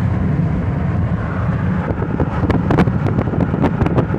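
Wind buffeting the microphone over the steady low rumble of a moving vehicle, with scattered clicks and rattles from about two seconds in.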